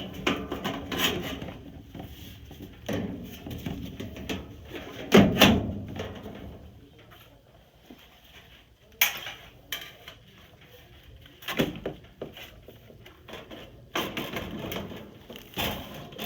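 Sheet-metal access doors of a Coleman mobile home furnace being fitted back on: irregular knocks, clatter and scraping, the loudest about five seconds in.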